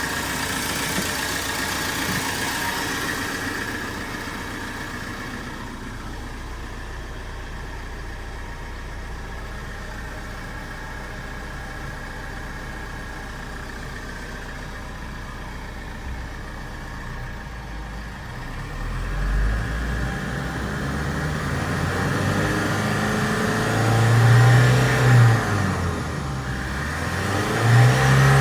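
Isuzu Elf truck engine idling steadily, then revved repeatedly over the last ten seconds, with two sharp rev peaks a few seconds before the end and another rev starting right at the end.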